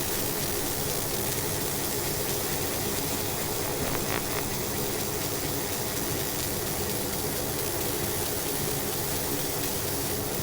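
Steady hiss with a low hum from a laser machine running idle, its fans and air pump going, before it starts moving.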